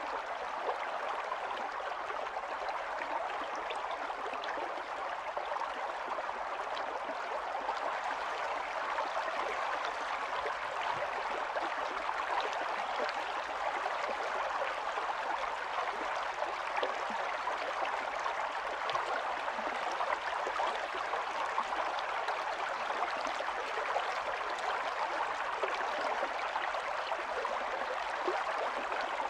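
Running stream: water flowing and splashing over stones in a steady, even rush.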